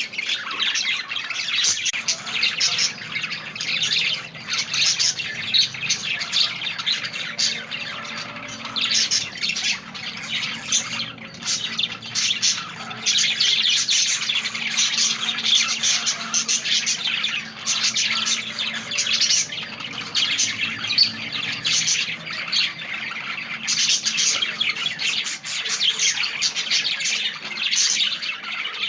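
Budgerigars chattering and chirping continuously, with many rapid, overlapping chirps.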